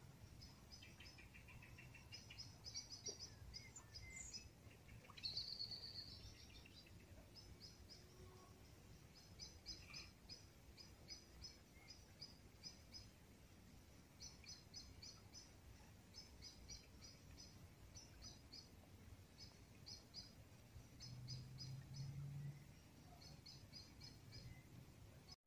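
Faint small birds chirping in short quick clusters of high notes, repeated every second or two, over a faint low rumble.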